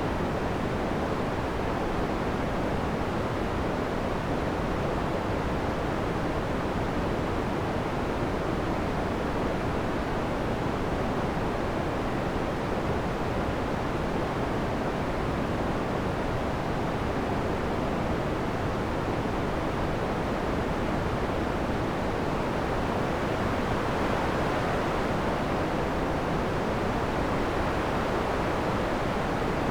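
Synthesized wind made in Max (Cycling '74): a steady rush of filtered noise that swells slightly louder and brighter near the end.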